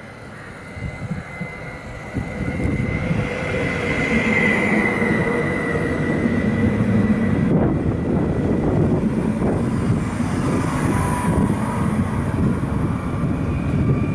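Electric multiple unit passenger train running past along the platform: wheels rumbling on the rails, growing loud about two seconds in as the cars come alongside. A thin whine from the train is heard over the rumble partway through.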